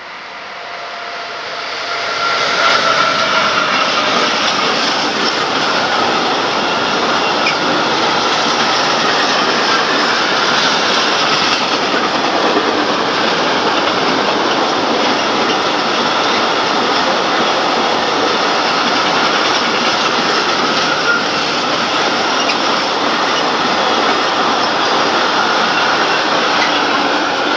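Container freight train passing close by behind a Vectron locomotive. The sound builds over the first two seconds as the train arrives, then holds as a steady loud rolling of wagon wheels on the rails, with a light clatter over the rail joints.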